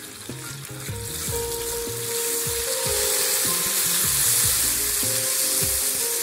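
Wet green spice paste hitting hot oil and garlic in a wok, sizzling hard as it is stirred with a steel spoon; the sizzle builds about a second in and holds. Background music plays underneath.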